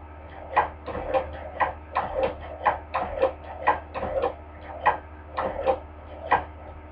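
Hand-crank cobbler sewing machine stitching at a slow, even pace: a sharp click about twice a second as the needle cycles, over a light mechanical rattle, stopping shortly before the end.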